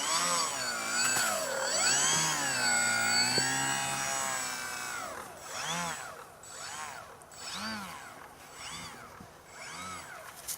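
A radio-control model airplane's motor and propeller revving up and down during a taxi test, the pitch rising and falling with the throttle. The revving is steadier for the first few seconds, then comes in shorter bursts.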